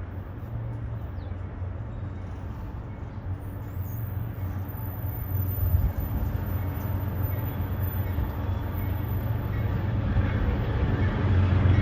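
Diesel locomotives of an approaching freight train, a steady low engine drone that grows steadily louder as the train draws near.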